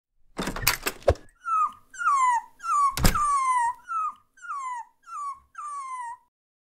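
Dog whimpering: a string of about eight short whines, each sliding down in pitch. Before them comes a brief burst of clattering noise with sharp knocks, and another sharp knock lands partway through the whines.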